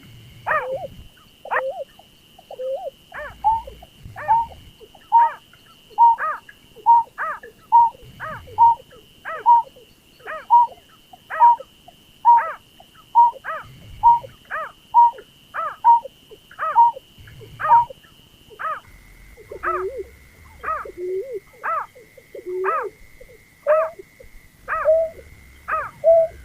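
Repeated calls of the paddy-field bird known as berkik or pekung: a long run of short, sharp, downward-sweeping notes, about three every two seconds. Under them is a steady thin high tone that drops to a lower pitch about two-thirds of the way through.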